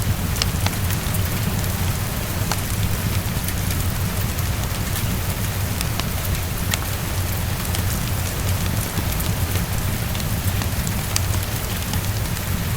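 Heavy rain falling steadily against a window, with a constant low rumble underneath and scattered sharp ticks of drops.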